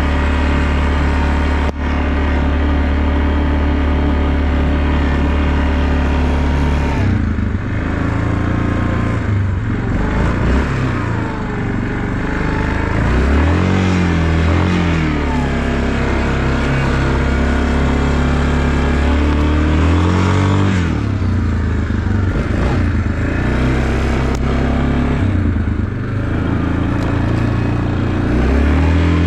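Off-road vehicle engine running at a steady pitch, then from about seven seconds in revving up and down repeatedly with the throttle while riding.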